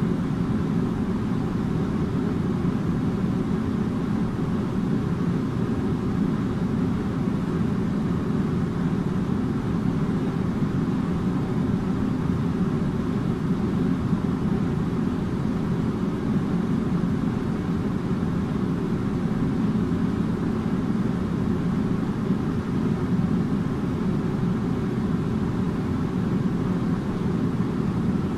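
Air conditioner running steadily: an even, deep rush of fan and airflow noise that does not change.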